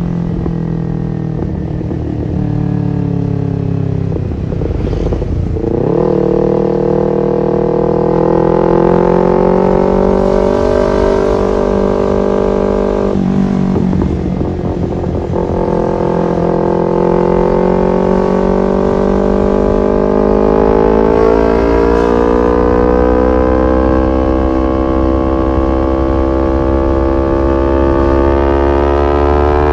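Kawasaki Ninja 250FI's parallel-twin engine through an R9 H2 SS aftermarket exhaust, pulling under way: the pitch climbs steadily as it gathers revs, drops at gear changes about five and thirteen seconds in, and then climbs again.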